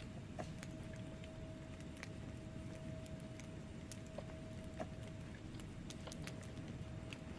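Wood fire burning in a fireplace: a steady low rumble of flames with irregular sharp crackles and pops from the logs, several a second, a few louder than the rest. A faint steady tone sits under it throughout.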